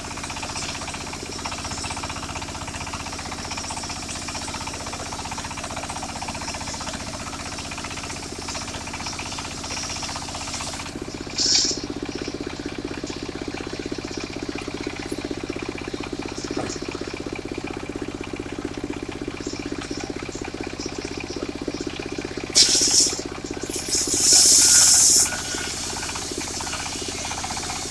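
Circular sawmill running steadily, with its blade cutting into wood in short, loud, hissing bursts: once about eleven seconds in and twice near the end.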